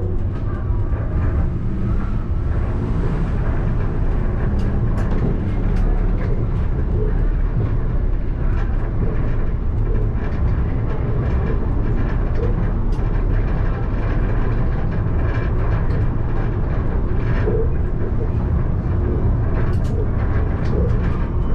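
Alstom Citadis tram running along the track, heard from the driver's cab: a steady low rumble of wheels and running gear with scattered light clicks and knocks.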